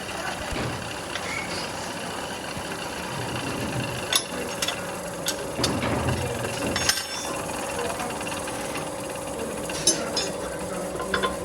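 Workshop machinery running steadily, with scattered sharp metallic clicks and knocks. A steady hum comes in during the second half.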